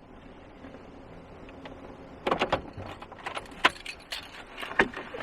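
Low steady background hum, then from about two seconds in a quick irregular run of sharp clicks and knocks, like small objects being handled.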